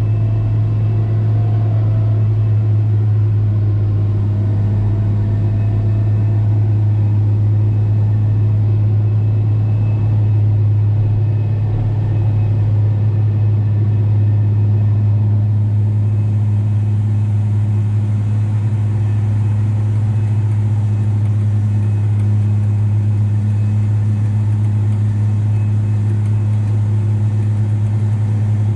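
Valtra T234 Direct tractor's six-cylinder diesel engine running at a steady speed under load, a constant low drone that holds unchanged.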